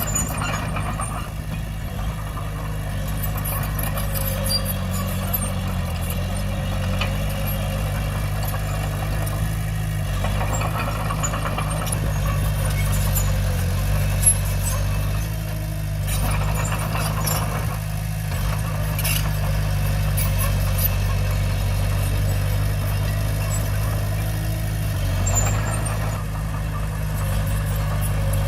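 Diesel engine of a Komatsu D20P small crawler bulldozer running steadily, with a few faint clicks over it.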